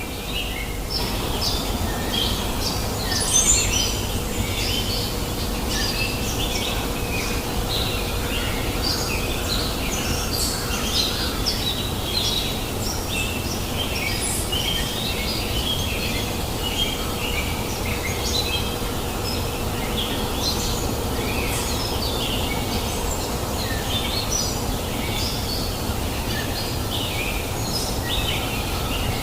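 Many birds chirping and calling in quick, overlapping short notes over the steady rush of a flowing river.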